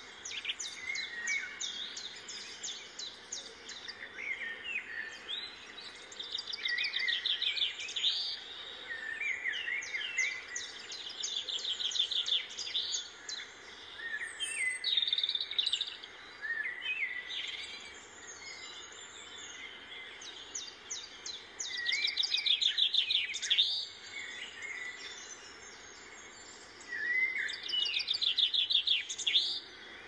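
Small birds chirping, with short runs of rapid trilled notes recurring every few seconds over a faint steady background hiss.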